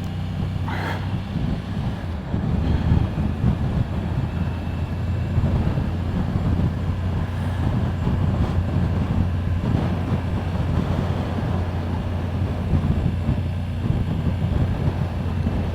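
Motorcycle engine running steadily at low revs, with a constant low hum under road and wind noise.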